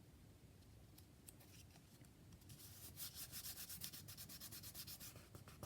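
Faint, quick back-and-forth rubbing strokes on paper, several a second, starting about two and a half seconds in.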